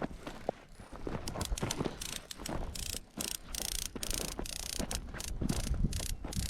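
Footsteps crunching and scraping on dry, crumbly ground, in irregular bursts of gritty noise that come thicker from about two seconds in, over a low rumble.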